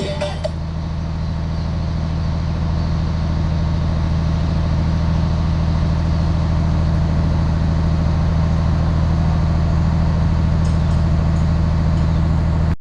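An engine running steadily at idle, a low even drone with no change in speed.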